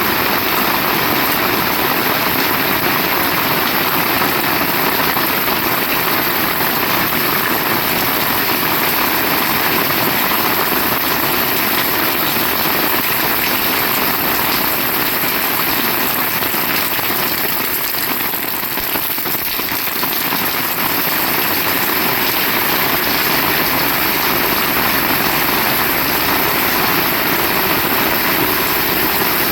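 Heavy rain falling in a steady, dense downpour, dipping a little about two-thirds of the way through.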